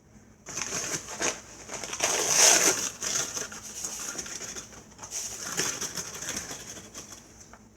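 Granulated sugar being scooped and poured from a measuring cup into a pot: a gritty pouring hiss, loudest about two to three seconds in, with another smaller pour past the middle.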